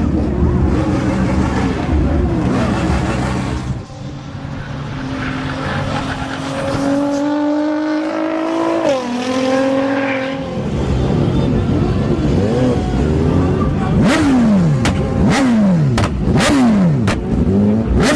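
Sport motorcycle engines revving hard. One rises in pitch and drops sharply about nine seconds in, as if passing by, and near the end an engine is blipped to high revs about five times in quick succession.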